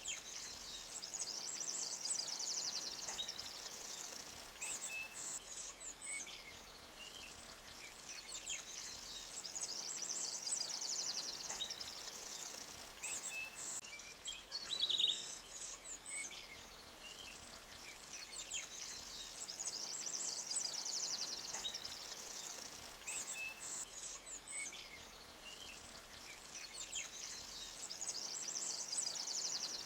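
Forest ambience: small birds chirping, with high trilling phrases that recur about every nine seconds and one louder call about halfway through, over a faint steady hiss of a running stream.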